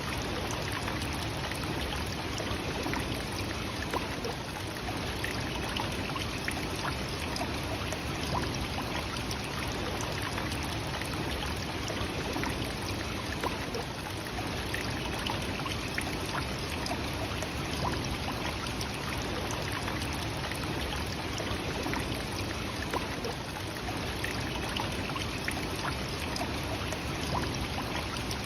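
Nachi Falls: a tall waterfall's steady rush of falling water, with faint scattered splashes.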